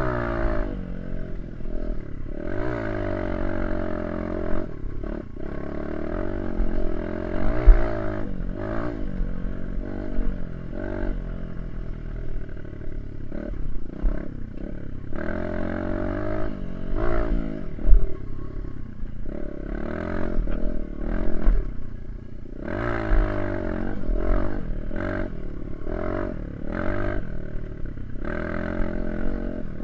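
Small dirt bike engine being ridden, its pitch rising and falling again and again as the throttle is opened and closed, with a few sharp knocks along the way.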